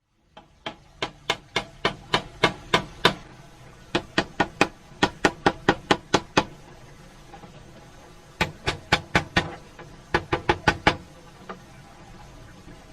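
A rapid series of sharp hammer-like knocks, about three to four a second, coming in four bursts with short pauses between them, then one last knock.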